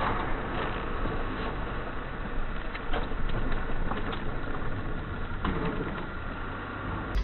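Steady car engine and road noise with a few faint ticks, and no crash impact.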